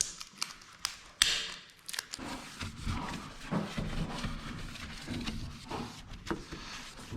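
Sharp clicks and knocks of hard parts being handled at a window, with one loud snap a little over a second in, then low scraping and rustling handling noise.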